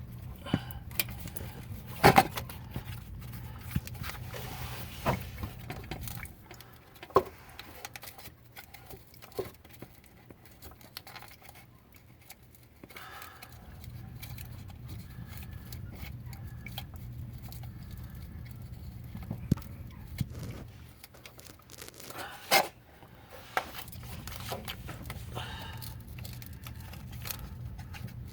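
Irregular small clicks, scrapes and knocks of hands working the plastic retaining clips and hose fittings on a fuel filter, with a few sharper snaps, about 2 seconds in and again near 22 seconds. A low steady hum sits underneath and drops out for a few seconds twice.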